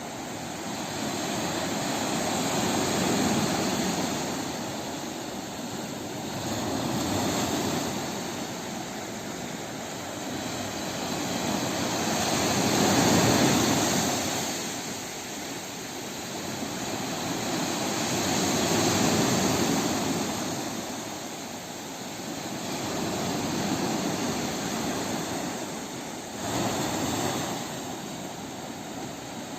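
Sea waves washing in, the surf swelling and fading in slow surges about every five or six seconds, with one sharper wash near the end.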